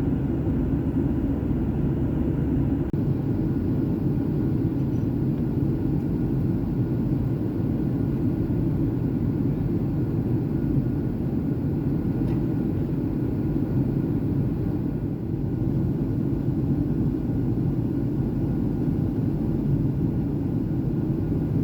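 Steady cabin noise of a Boeing 737 airliner in flight: a constant low rumble of engines and rushing air, with faint steady tones above it. The deepest part of the rumble drops slightly about three seconds in.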